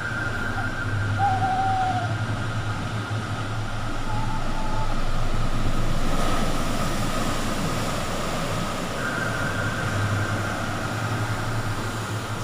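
Sea surf washing onto the beach: a steady roar of waves that swells about halfway through, with a low steady hum underneath.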